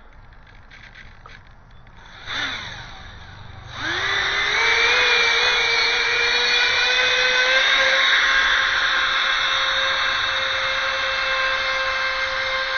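Electric ducted fan of a 3D-printed thrust-vectoring drone. It gives a short blip a little over two seconds in, then spools up with a quickly rising whine about four seconds in and holds a loud, steady, high-pitched whine.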